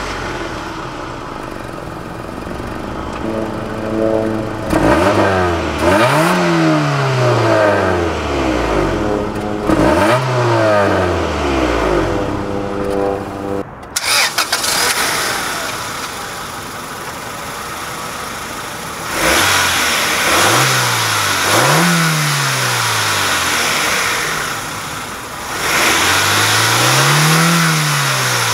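1999 Acura Integra's stock B18B1 1.8-litre four-cylinder running through the stock exhaust, idling and then revved five times, each rev rising and falling in pitch. About halfway through, the sound changes to the engine heard at the open hood.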